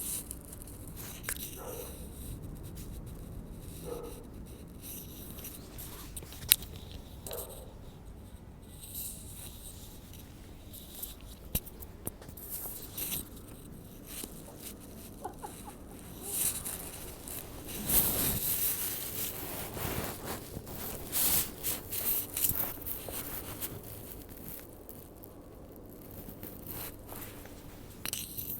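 Husky puppies moving about and playing: scattered scuffling, pattering and small knocks, busiest in the second half.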